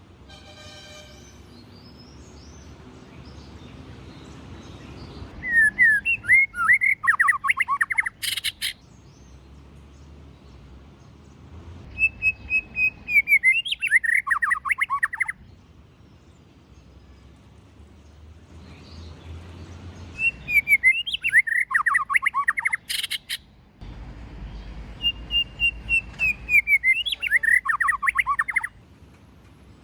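White-rumped shama singing four loud phrases a few seconds apart. Each phrase opens with clear whistled notes and breaks into a fast, tumbling run of varied notes. Two phrases end in a sharp click.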